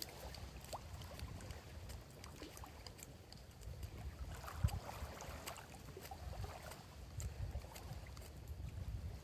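Small lake waves lapping and washing against the shore, with wind rumbling on the microphone and scattered small crackles and ticks.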